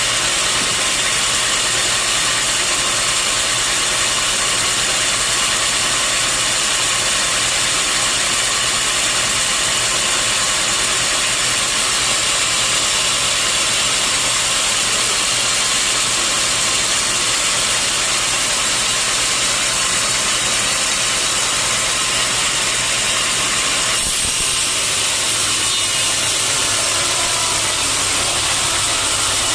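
Sawmill machinery running steadily: a constant hum underneath and a dense high hiss over it. The sound shifts slightly near the end.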